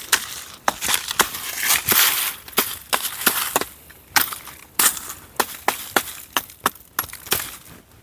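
Dry leaves and twigs crunching and snapping in a fast, uneven series of sharp cracks, about two to three a second.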